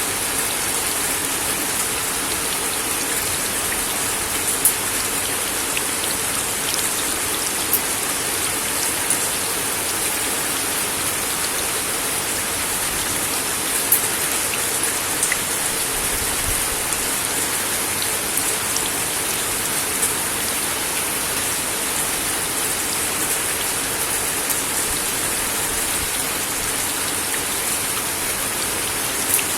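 Steady rain falling on a wooden deck, a dense hiss with scattered individual drops tapping sharply.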